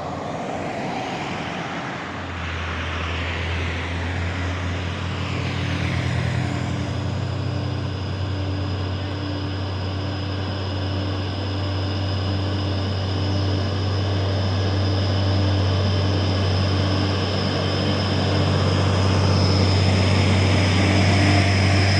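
Heavy truck's diesel engine running with a steady low drone, growing gradually louder as it comes closer.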